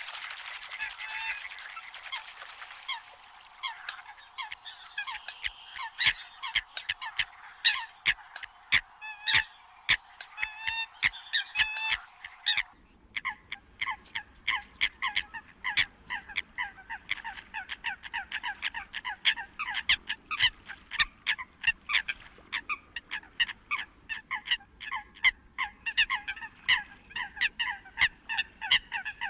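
Eurasian coots calling: a rapid, continuous string of short, sharp notes, several a second. About halfway through, the background hiss changes abruptly where two recordings are joined.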